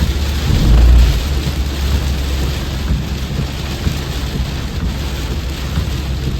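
Heavy rain pouring down steadily, with a deep rumble of thunder that swells loudest about a second in.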